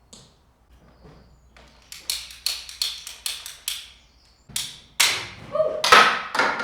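Plastic electrical conduit and its fittings being handled and worked: a run of about seven sharp clicks, then louder scraping and knocking with a brief squeak near the end.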